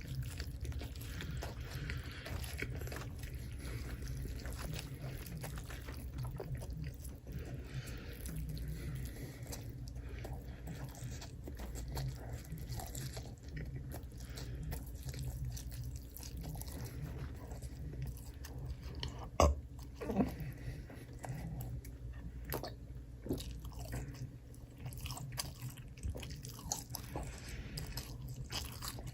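Close-miked chewing and crunching of food, many small wet clicks and crunches in a continuous run, with one sharp louder click about two-thirds of the way through.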